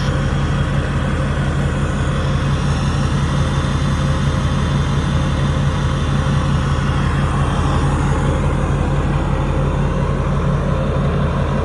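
A 2010 Ford F-250's 6.4-litre Power Stroke V8 turbo-diesel idling steadily through its stock 4-inch exhaust.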